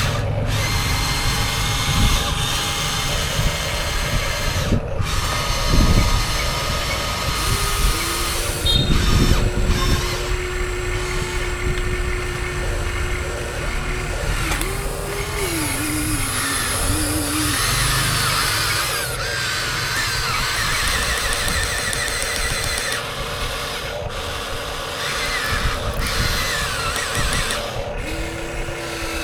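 Electric drive motors and gearboxes of 1:14-scale Huina RC construction machines whining in spells over a steady low rumble. One whine holds an even pitch for several seconds, then wavers up and down as the machine works, and another starts near the end.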